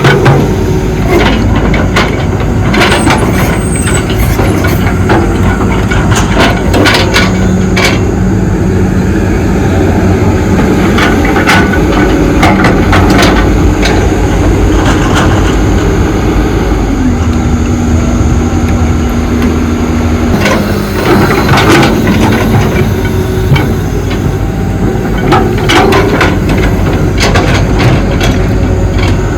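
Hydraulic excavator at work: its diesel engine runs steadily under load with a held hydraulic tone that shifts pitch a few times, over many sharp clanks and knocks.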